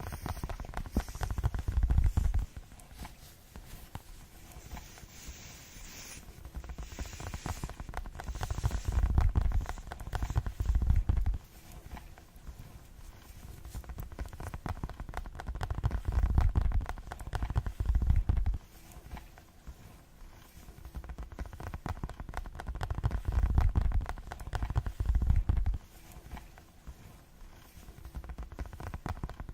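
Fast ASMR tapping: a dense run of rapid light taps. About every seven seconds it swells into a couple of seconds of deep, heavy low thudding.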